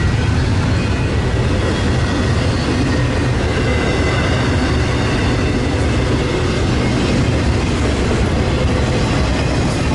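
Train rolling past, a steady, loud rumble of wheels on rails with faint high wheel squeal.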